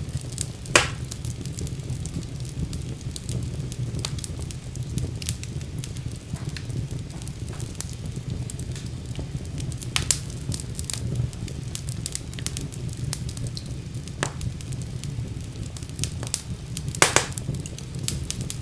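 Fire crackling in a fireplace: a steady low rumble of flames under a constant patter of small snaps, with a few louder pops, the loudest about a second in and near the end.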